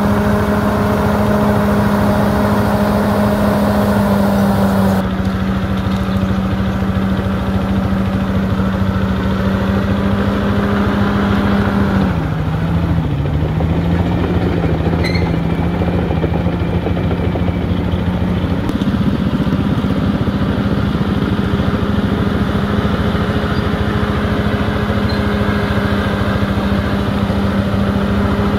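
Bulldozer's diesel engine running steadily as it works, its pitch dipping briefly about twelve seconds in as it takes load, then recovering.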